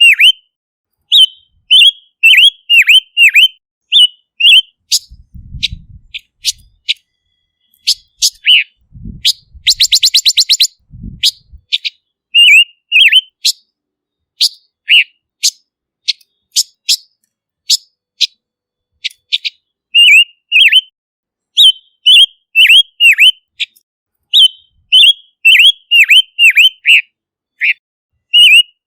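Silver-eared mesia calling: quick groups of short, high, down-slurred whistled notes repeated over and over. About ten seconds in comes a fast rattling series, and a few faint low thumps fall around the middle.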